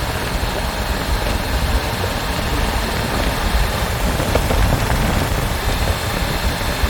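Motorcycle running steadily: a continuous low rumble under an even rushing noise, with no change in pace.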